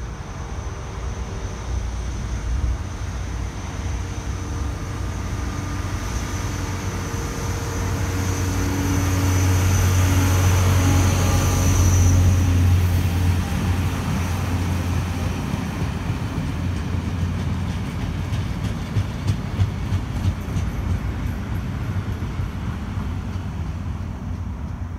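A test train hauled by Eurotunnel Krupp diesel locomotives passes at speed. The engine hum and the rail noise build to their loudest about halfway through as the locomotive goes by. The coaches follow, with a series of sharp wheel clicks, and the sound fades away.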